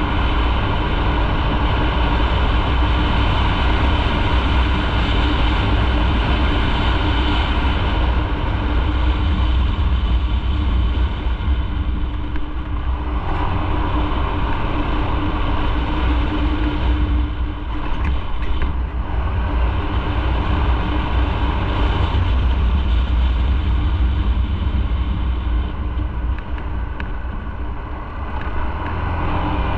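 Motorcycle riding along, heard from on board: a steady engine note with road noise. The engine note eases briefly twice around the middle.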